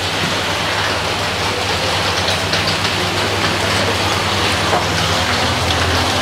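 Rain falling steadily, with a low steady hum beneath it.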